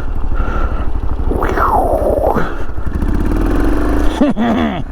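1982 Yamaha SR400's single-cylinder four-stroke engine running under way, its firing pulses steady, with a sound sweeping down and back up in pitch about a second and a half in.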